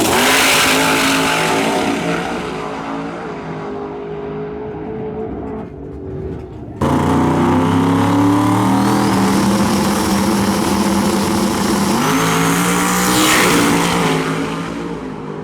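Twin-turbo Chevrolet Nova drag car's engine running hard, fading over the first few seconds as it pulls away. About seven seconds in the sound cuts abruptly back to a loud engine, with the car going by close near the end.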